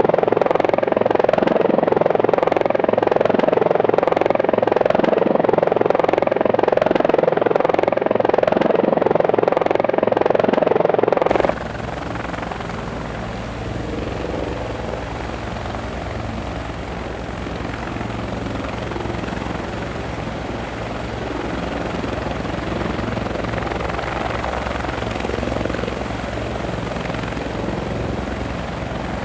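Helicopter rotor and engine noise: loud with a rapid, regular pulsing for the first eleven seconds or so, then an abrupt cut to a quieter helicopter sound with a pulsing low rumble and a steady high-pitched whine.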